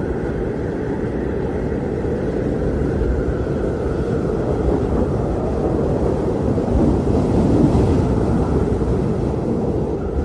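Blizzard wind blowing steadily, a deep rushing noise that swells slightly about seven seconds in.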